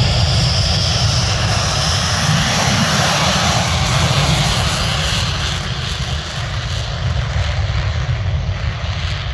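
Fixed-wing aircraft passing with a loud, steady engine noise that eases slightly in the second half.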